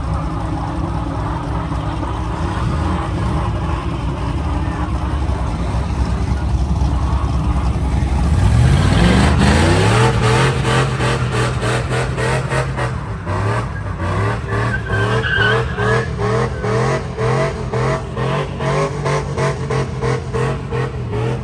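Truck engine running steadily, then revving up about eight seconds in and held at high revs with a regular pulsing, about two pulses a second, with tyre-skidding noise.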